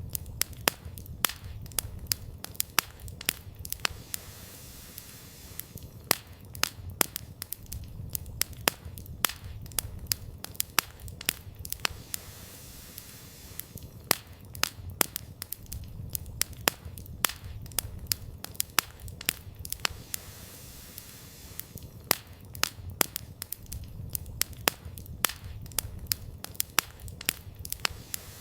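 Wood campfire crackling and popping irregularly, a few pops much louder than the rest, over a low steady rumble of the burning fire.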